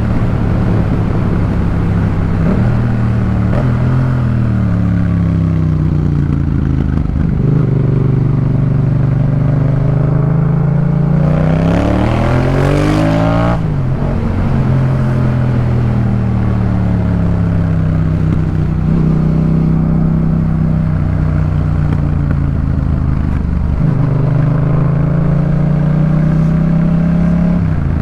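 Yamaha MT-07's parallel-twin engine through a Jeskap K4 full exhaust system, its pitch rising and falling as the bike accelerates and slows. Near the middle it revs hard to a peak that cuts off suddenly, then the pitch falls away as it decelerates, before rising again near the end.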